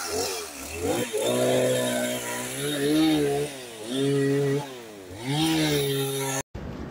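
An engine revving in about four surges of roughly a second each, its pitch rising and falling, then cutting off abruptly near the end.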